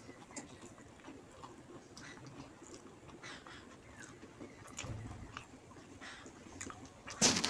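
Close-up eating sounds: chewing, lip smacks and small wet clicks from a mouthful of rice and fish curry, scattered irregularly. A louder, short double sound comes near the end.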